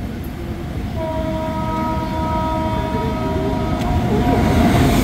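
Train running with a steady low rumble. About a second in, a long, steady multi-tone train horn starts and holds. The rumble grows louder as a WAP-7 electric locomotive and its passenger coaches pass close by on the next track.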